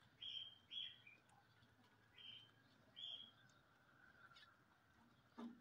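A small bird chirping: about five short, high chirps in the first three seconds.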